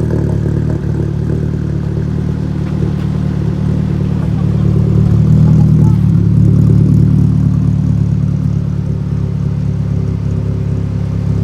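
Seat Leon Cupra R's turbocharged four-cylinder petrol engine idling steadily after a cold start. It grows slightly louder a few seconds in, then settles back.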